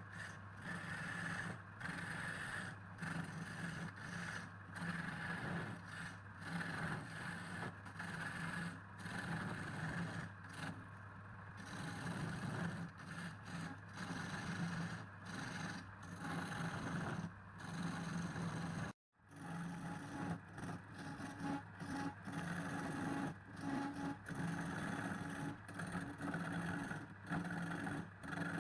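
A motor running steadily with intermittent scraping and clattering. The sound cuts out completely for a moment about two-thirds of the way through.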